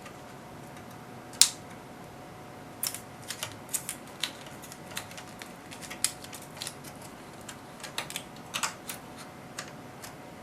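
Irregular small clicks and taps from handling the connectors and parts inside an opened HP 3245A universal source, with one sharper click about a second and a half in. A faint steady tone runs underneath.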